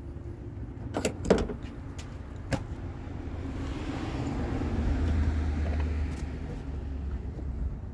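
Vehicle running with a steady low rumble. A few sharp clicks or knocks come about a second in, and a rushing noise swells and then fades in the middle.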